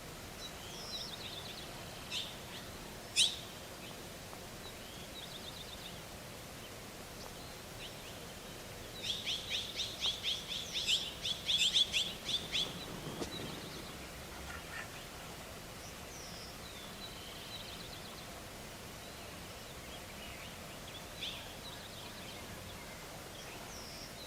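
Small birds chirping in scattered high calls, with a quick run of about a dozen and a half sharp high notes in the middle.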